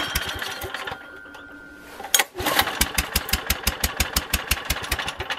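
Small generator engine, pull-started, catching about two seconds in and running roughly with evenly spaced firing pulses at about eight a second, then cutting out near the end. It is fitted with an ignition coil from a different engine, whose different specification makes it hard to start.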